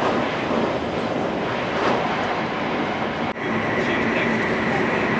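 Running noise of a Hokuriku Shinkansen train at high speed, heard inside the passenger cabin. About a third of the way in the sound changes suddenly to a steadier drone with a thin high whine as the train runs in a long tunnel.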